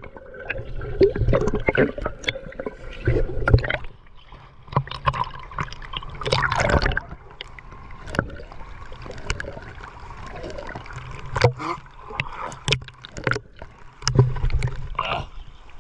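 River water splashing and sloshing as people swim, with irregular sharp splashes and gurgling throughout.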